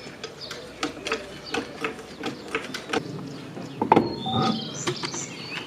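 Metal hand tools clicking and clanking as a car's coilover suspension is adjusted, with a louder clank about four seconds in.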